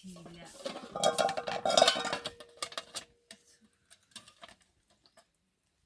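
Clattering and clinking of hard objects, with one ringing note that dies away just before the four-second mark; after it, only a few faint knocks.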